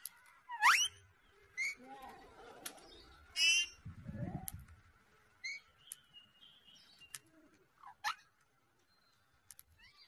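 Birds calling: scattered sharp chirps and quick rising whistled notes, the loudest about half a second in, with a buzzy call about three and a half seconds in. A brief low sound about four seconds in.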